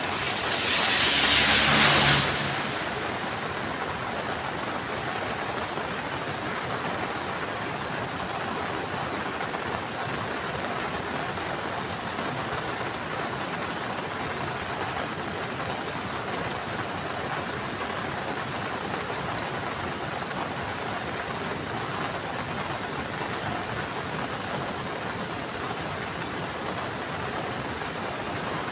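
Heavy rain falling steadily, an even rushing hiss. Near the start a louder rushing swell builds for about two seconds and then drops away suddenly.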